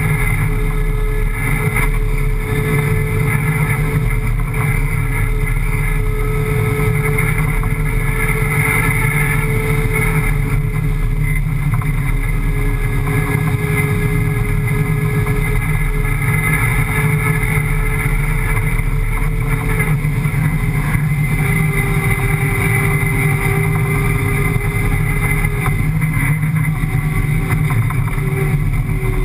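A rally car's 5.7-litre Hemi V8 running hard and steadily while driving across sand dunes, heard from inside the cabin. The engine note holds mostly steady, with small rises and dips in pitch.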